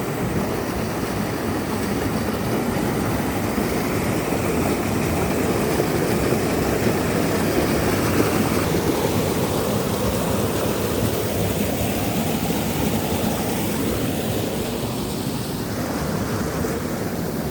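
A loud, steady rushing noise with no beat.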